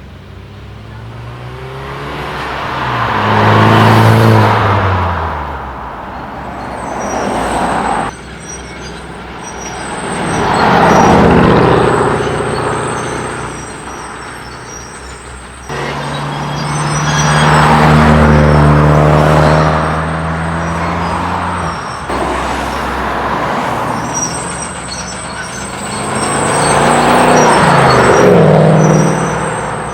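Tuner cars' engines and exhausts as the cars accelerate past one after another: four separate passes, each swelling up loud and fading away, with the engine pitch rising and falling.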